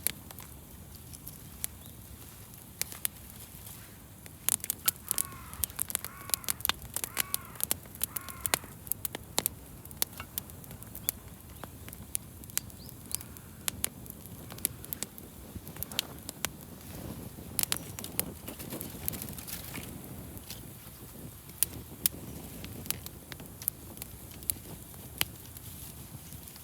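Wood fire crackling, with sharp pops and snaps throughout. About five seconds in, a crow caws about five times in a row.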